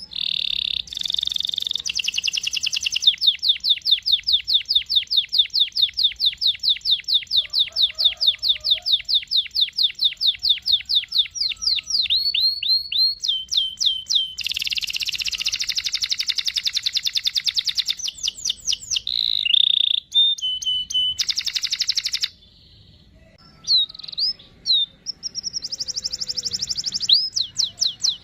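Domestic canary singing a long, fast song: an extended trill of evenly repeated notes lasting about nine seconds, then buzzy rolls and chirps. The song breaks off briefly a little after the middle, then resumes.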